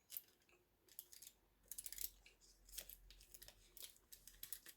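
Faint close-miked eating sounds: scattered small clicks and crackles of chewing, probably on crisp-skinned baked chicken.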